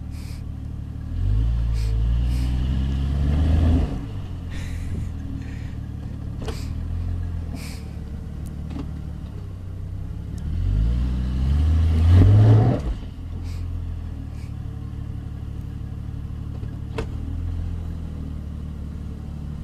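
Jeep Cherokee XJ engine revved hard twice while climbing a rocky ledge. Each time the pitch rises over two or three seconds and then drops back to a low steady run; the second rev, near the middle, is the louder. A few sharp knocks come in between.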